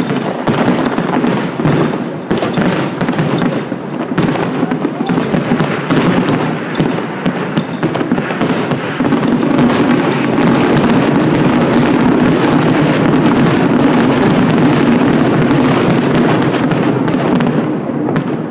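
Fireworks going off in quick succession, many bangs and crackles close together. About halfway through they merge into a continuous dense crackling.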